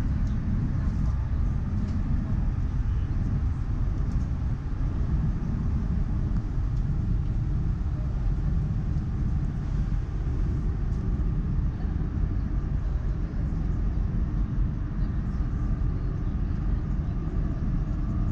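Steady low rumble of a Southeastern Class 395 Javelin electric train running, heard inside the carriage.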